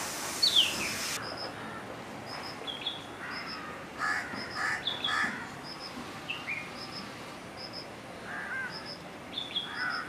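Several birds calling. A loud down-slurred note comes about half a second in, paired high chirps repeat about once a second, and a cluster of lower calls falls around the middle.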